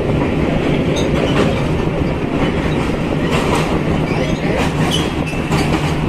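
Passenger train running, heard from inside the carriage: a steady rumble and low hum, with a few irregular clacks of the wheels over the rail joints.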